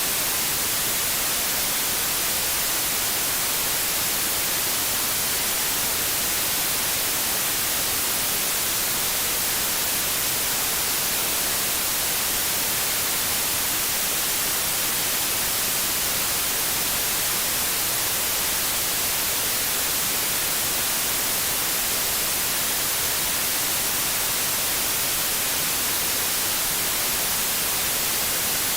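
TV static: an even, unchanging hiss with most of its energy in the highs.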